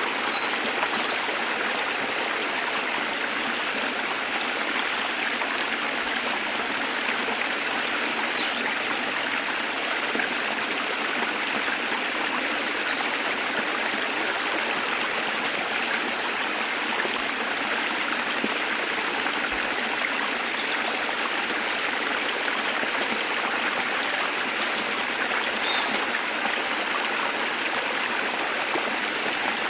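Waterfall water rushing in a steady, even flow, with no change in level.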